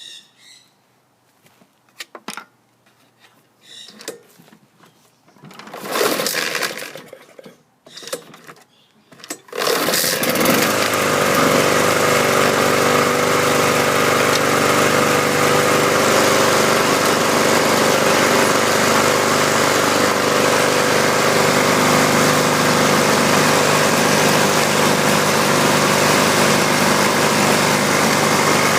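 Honda Harmony HRT216 lawn mower being recoil-started. There are scattered knocks and a few pulls on the starter cord. About ten seconds in, the engine catches and settles into a steady run.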